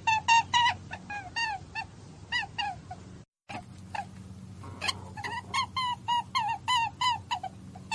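Rapid series of short, high-pitched animal calls, each dipping in pitch, about three or four a second, broken by a brief cut to silence about three seconds in.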